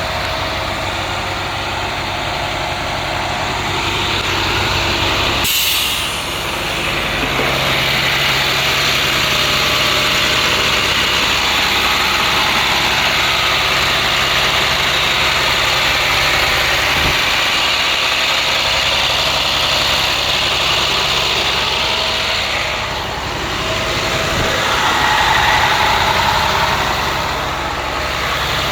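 The six-cylinder diesel engine of the DT MaxxForce 7.6-litre (MaxxForce DT) in an International school bus, running steadily. A brief sharp sound comes about five and a half seconds in.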